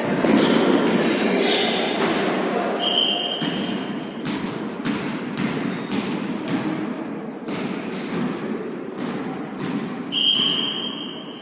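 Repeated thuds and knocks of a volleyball being struck and bouncing in a sports hall during a rally, with short high squeaks twice, about three seconds in and again near the end.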